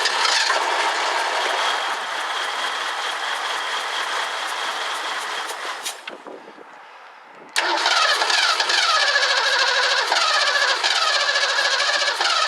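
1984 Ford Mustang GT350's engine started on fuel poured into the carburetor, running about six seconds before it dies, then started again a second or so later and running on. It keeps spark while it dies, so the owner puts the stalling down to the carburetor.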